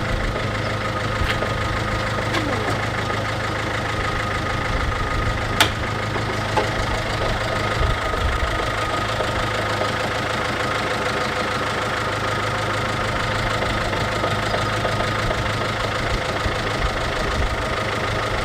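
MINI R56's 1.6 HDi DV6 diesel engine idling steadily. There is a single sharp click about five and a half seconds in.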